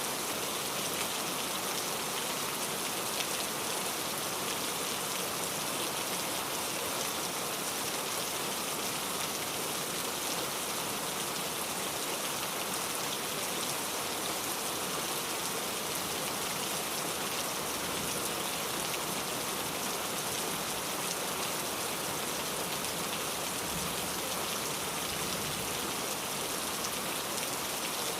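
Steady rain falling, a dense even patter of drops on surfaces with no letup.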